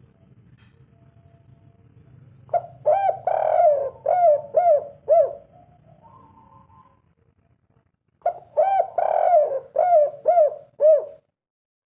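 Spotted dove cooing in two phrases, each a run of short, arched coo notes. The first phrase starts about two and a half seconds in and the second about eight seconds in.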